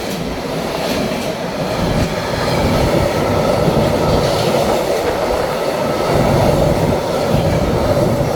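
A train running past on the rails: a loud, steady rumble of wheels and cars on the track.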